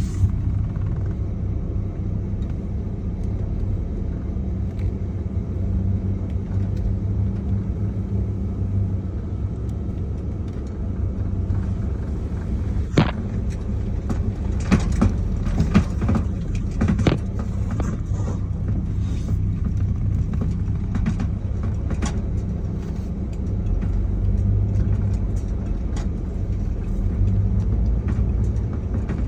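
Car driving, a steady low rumble of engine and tyres, with a cluster of sharp knocks and rattles about halfway through.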